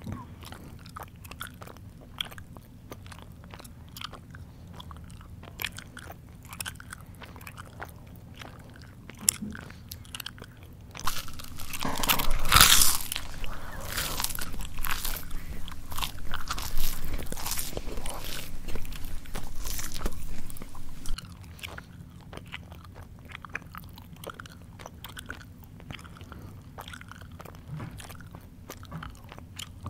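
A person chewing crunchy food close to the microphone, with crisp crunches and wet mouth clicks. The chewing grows much louder and denser about a third of the way in and stays that way for about ten seconds, then drops back to quieter chewing.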